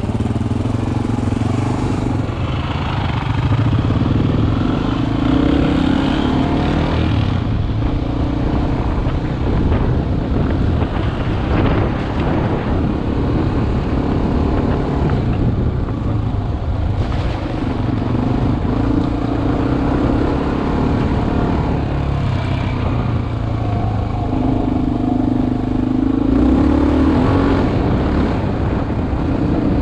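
Single-cylinder four-stroke dual-sport motorcycle engine running under way, its revs rising and falling several times, heard from the rider's helmet.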